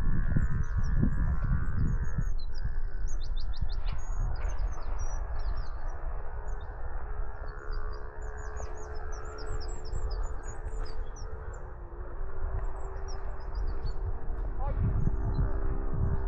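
Many songbirds chirping and trilling, with fast repeated notes a few seconds in, over a steady low drone and low thudding rumble that is heaviest near the start and near the end.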